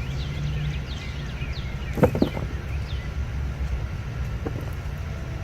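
Small birds chirping in a run of short, falling calls over a steady low outdoor rumble, with two sharp knocks about two seconds in.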